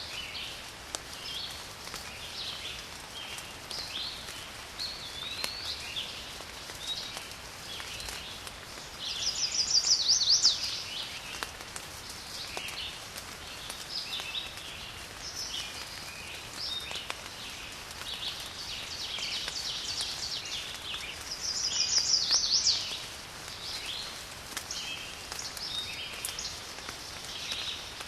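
Steady rain falling over a garden, with many small birds chirping throughout. Twice, about ten seconds in and again near twenty-two seconds, a bird gives a louder fast trill.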